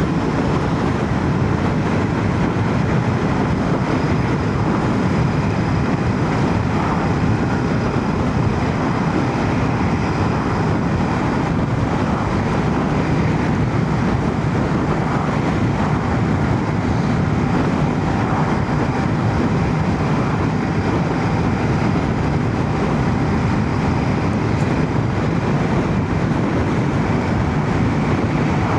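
Royal Enfield Shotgun 650's parallel-twin engine running steadily at road speed, with wind and road noise, heard through a microphone inside a full-face helmet.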